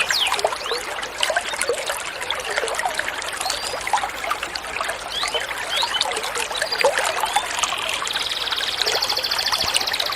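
Water trickling and gurgling in a steady stream of small splashes. About eight seconds in, a songbird's fast, even trill starts over it, stepping up higher about a second later.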